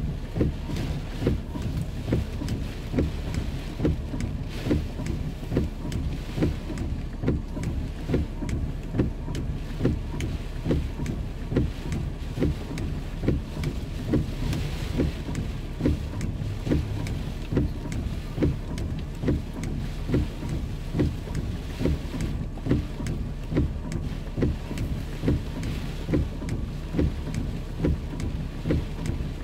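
Heavy rain and strong wind with a steady low rumble, and a regular thump a little more than once a second.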